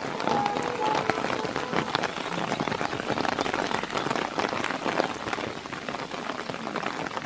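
Heavy monsoon rain hitting a car, a dense steady patter of drops with many small ticks. A faint short tone sounds in the first second or so.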